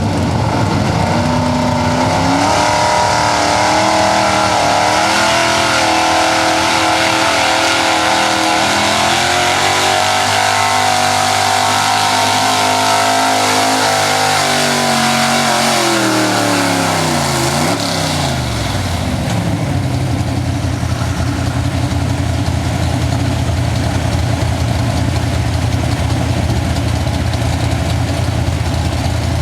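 Big-block pulling truck's engine at full throttle under load, its revs held high and wavering. About 16 seconds in the revs fall away, and the engine settles into a steady idle as the run ends.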